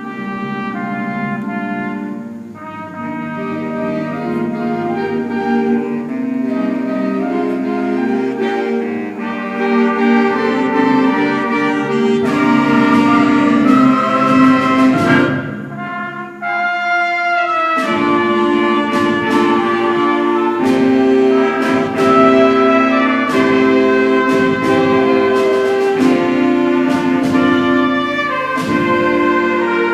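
School wind band playing a piece live, many sustained notes in harmony. It dips briefly about halfway through, then comes back louder with sharp accented notes.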